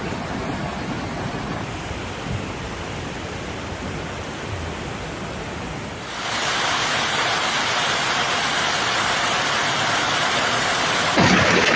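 Steady rushing of water, like floodwater; about six seconds in it cuts to a louder, brighter rush.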